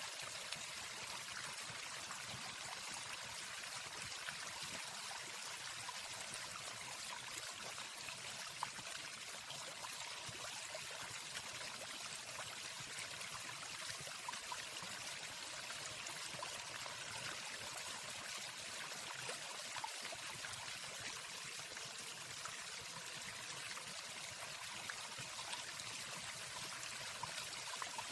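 Waterfall sound: an even, steady rush of falling water, with no birdsong.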